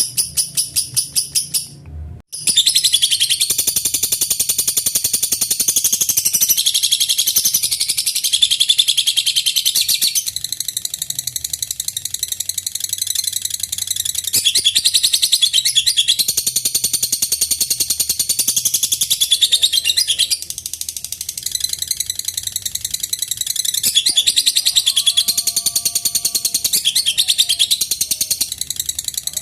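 Lovebird's long 'ngekek' song: a fast, high-pitched chattering trill that keeps going almost without a break, apart from a short gap about two seconds in and a few brief dips in level.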